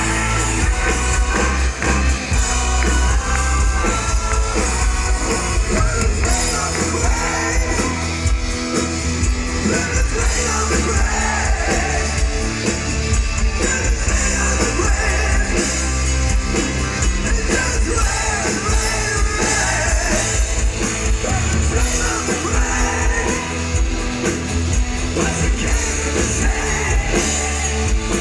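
Live heavy rock band playing loud, with distorted guitars, heavy bass and drums, and a voice singing over it.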